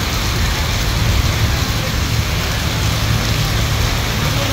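Heavy rain pouring onto pavement and a street, a dense, steady hiss of splashing water, with a steady low rumble underneath.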